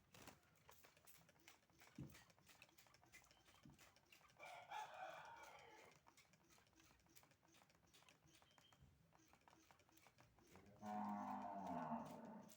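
A bird calling twice, each call about a second and a half long: once about four seconds in and again near the end, over faint clicking.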